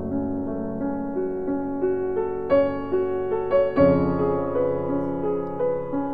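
Background music: a slow, gentle piano melody, single notes struck one after another over held lower notes.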